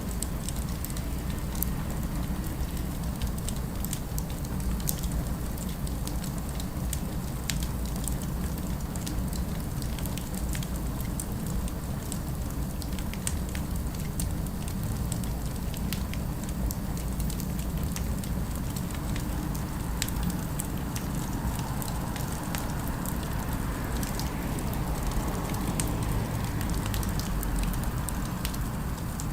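Fireplace crackling: scattered sharp pops and snaps over a steady low rumble of city ambience.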